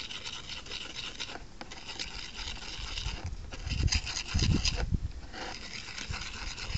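A spoon stirring and scraping a paste of bicarbonate of soda and washing-up liquid in a small container, a steady run of quick rubbing, rasping strokes, with a few dull bumps partway through.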